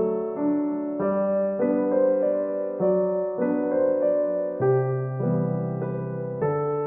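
Background piano music: a soft melody of single keyboard notes and chords that change about every half second to a second.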